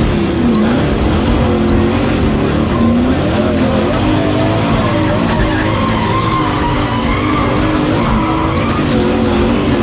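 Twin-turbo LS1 V8 in a Skyline race car revving up and down under load while its tyres spin and skid on a burnout pad.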